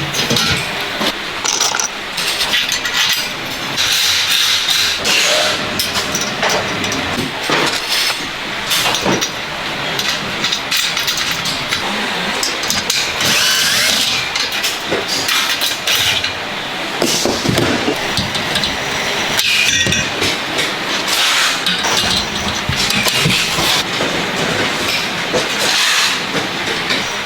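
Loud, continuous metalworking noise: a power tool running, with irregular clanks and knocks of metal.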